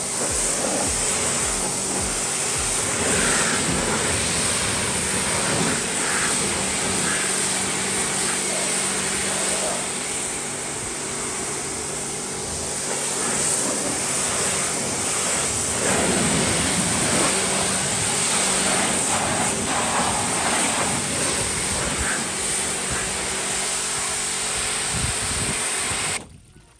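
Pressure washer spraying: a steady, loud hiss over a motor hum, cutting off suddenly near the end.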